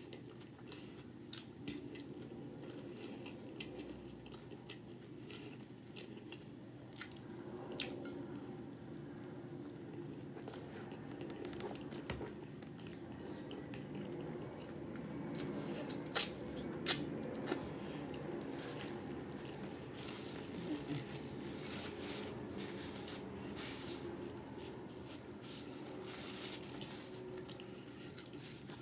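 Close-up chewing and wet mouth sounds of a person eating a soft tortilla taco boat, with scattered small clicks and a few sharp, louder clicks about halfway through.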